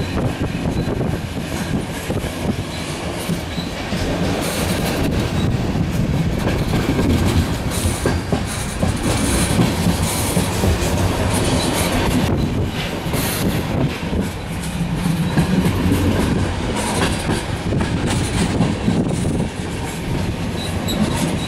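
Train rolling out of a station, with continuous rumble and wheels clicking over rail joints and points.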